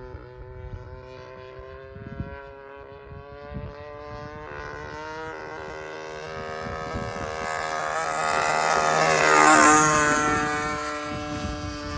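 20cc gasoline engine of a radio-controlled P-51 model plane running in flight. It grows steadily louder as the plane passes close about nine and a half seconds in, and its pitch drops as it goes by. Wind gusts on the microphone.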